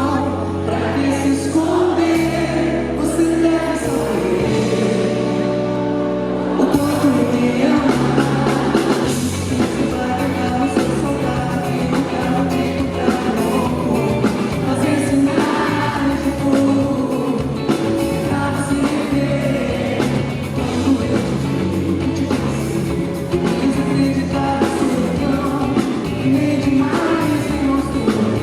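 Live band playing a slow pop song with singing. Held low chords for the first seven seconds or so, then drums and the fuller band come in.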